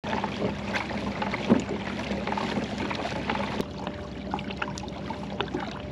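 Water sloshing and splashing against a kayak's hull, with many small irregular ticks and a low steady hum underneath; a single sharp click about three and a half seconds in.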